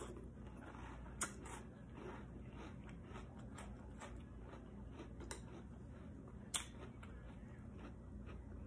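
Quiet chewing of a crunchy cereal in milk, with scattered small clicks of a metal spoon in a ceramic bowl and two sharper clicks, one about a second in and one about six and a half seconds in.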